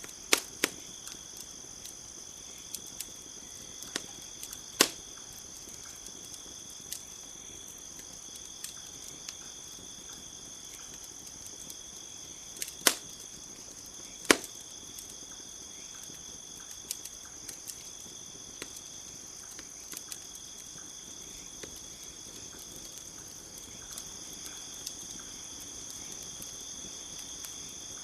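Campfire crackling, with scattered sharp pops, the loudest four near the start, about 5 s in and twice around 13–14 s, over a steady high chorus of crickets.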